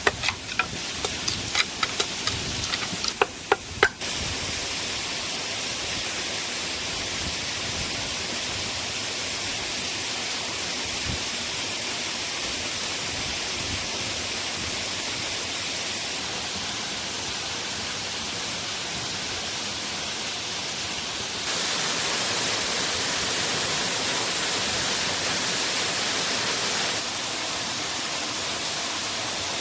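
Steady rushing hiss of a waterfall. In the first few seconds there is a quick series of sharp knocks or clicks, and the level steps up and back down a couple of times later on.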